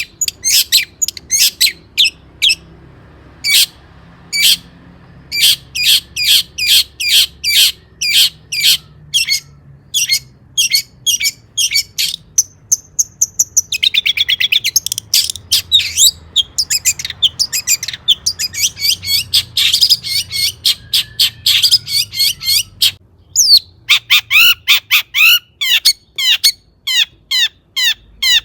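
Long-tailed shrike singing: a fast run of short, sharp, high chirps and harsher notes, broken by quick trilled passages about halfway and again later, with a short pause near the end.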